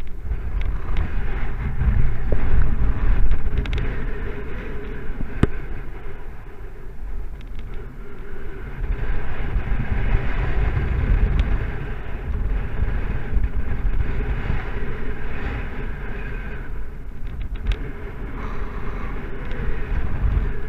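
Strong, gusting wind rushing over the microphone of a paraglider in flight, with a deep buffeting rumble that swells and eases, loudest about two to three seconds in.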